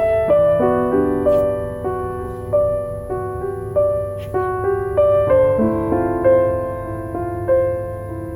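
Soft, slow piano music, its notes fading after each strike, with a few faint crackles from a wood-wick candle.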